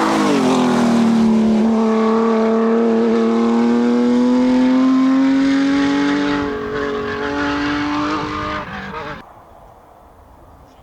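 Porsche GT3 rally car's flat-six engine at full throttle going past. The engine note drops sharply as it passes, then climbs slowly and steadily in one long gear as the car pulls away. The sound cuts off abruptly about nine seconds in.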